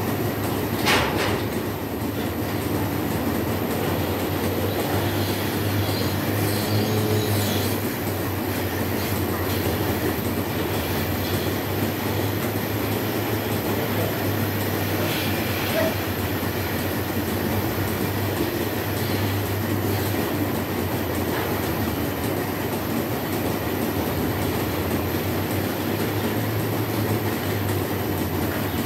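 Dairy milking plant running steadily in the milking shed, a continuous mechanical drone with a low hum and a thin high whine, and a brief metallic clank about a second in.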